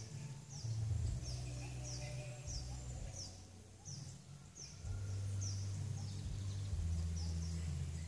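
A bird's high, short, falling chirp repeated steadily about every three-quarters of a second, over a low rumble of wind or handling on the microphone that is louder about a second in and again through the last three seconds.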